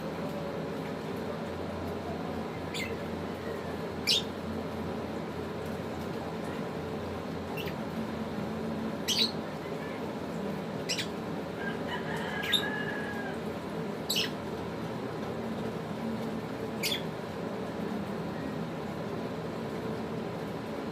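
African lovebirds giving short, sharp high-pitched chirps, about eight scattered over twenty seconds, each dropping quickly in pitch, over a steady low background hum.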